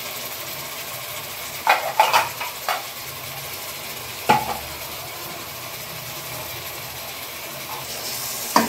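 Chopped onions and ginger-garlic paste sizzling steadily in hot oil in a kadai, with a few short knocks of the wooden spatula against the pan about two seconds in and one more about four seconds in.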